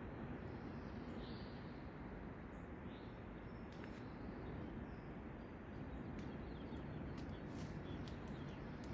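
Faint birds chirping now and then, short high calls scattered through, over a steady low outdoor background rumble.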